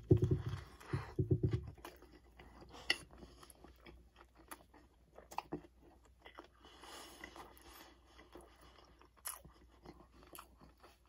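A bite into a crispy breaded fried chicken sandwich (KFC BBQ Big Crunch Stacker), then crunchy chewing. The crunching is loudest in the first two seconds, then goes on as softer, scattered crunches and clicks.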